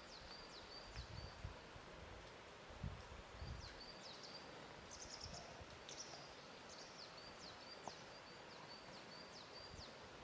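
Faint lakeshore ambience: a steady soft wash of water with a few low soft thumps of water lapping in the first few seconds. A small bird repeats high, thin chirps throughout.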